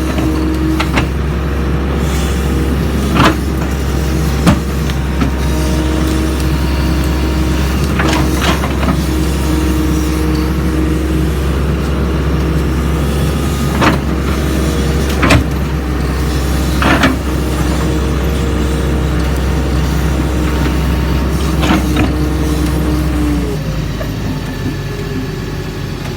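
Doosan DX140 excavator's diesel engine running steadily under work, with sharp knocks and clanks every few seconds. The low engine note drops for a moment near the end.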